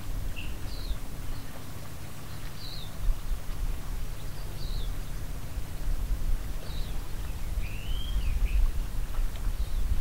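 Birds giving short high chirps every second or so, with one longer call that rises and falls about eight seconds in, over a steady low rumble.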